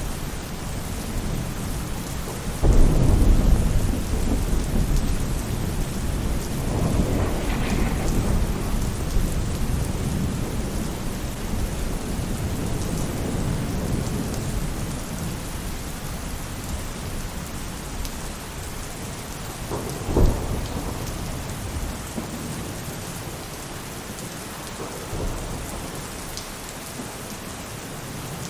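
Steady rain falling on a roof, with thunder rumbling several times: a loud roll about three seconds in, another a few seconds later, and a short sharp clap around twenty seconds in.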